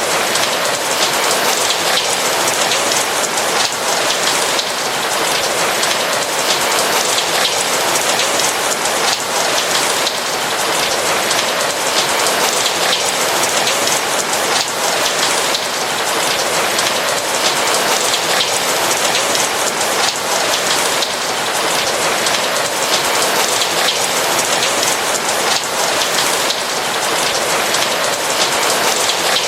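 Steady heavy rain on a roof: a dense, even patter of raindrops over a constant hiss, with no letup.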